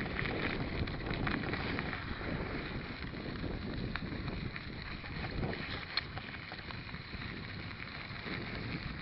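Wind buffeting the microphone of a camera riding on a moving mountain bike, a rumbling gusty noise, with the odd sharp click or rattle from the bike over rough ground.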